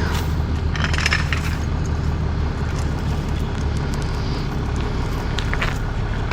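A vehicle engine idling steadily, with a few light clicks and knocks about a second in and again near the end.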